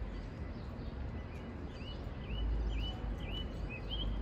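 A small bird chirping repeatedly, short hooked chirps about two a second, starting about a second in, over a steady low rumble.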